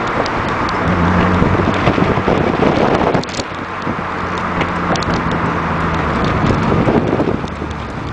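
Acura CSX Type-S's K20 four-cylinder engine running as the car drives, with wind and road noise. The steady engine note breaks off briefly about three seconds in and changes again near the end.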